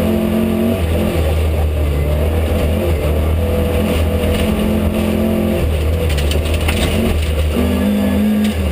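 Rally car engine at high revs heard from inside the cabin, its pitch rising and falling as the driver works the throttle and gears on a snowy stage, over a steady rumble. A few sharp clatters come about six to seven seconds in.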